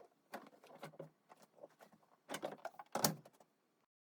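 Irregular knocking and clattering of handled hard parts, with louder knocks about two and a half and three seconds in, then the sound cuts off.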